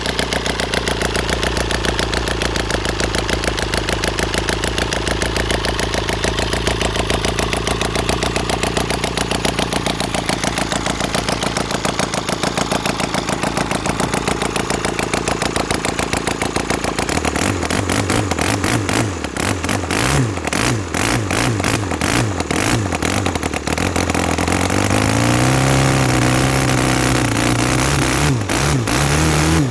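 Valach/Fiala VM 120 boxer engine running after repair and overhaul. It runs fast and steady, is throttled back a little over halfway through to an uneven low idle with a wavering note, then picks up again to a steady, higher run near the end.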